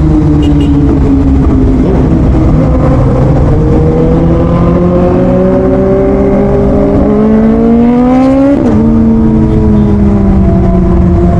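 Motorcycle engine under way: the revs ease off, then climb steadily for several seconds, drop sharply at a gear change about three-quarters of the way through, and ease down again.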